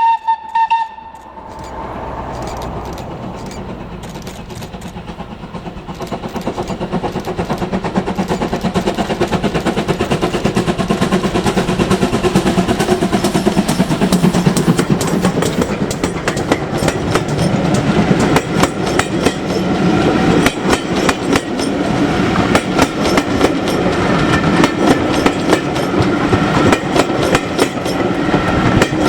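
Steam locomotive whistle cutting off about a second in, then the train running and growing steadily louder, a dense rumble full of rapid clicks from wheels and rail joints.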